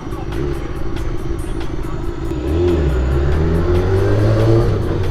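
BMW S1000RR's inline-four engine running at low revs while riding, growing louder and rising slightly in pitch about halfway through.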